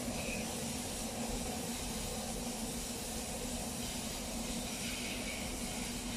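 ICE high-speed train running past on the track, a steady hiss of rolling noise with a low, even hum underneath.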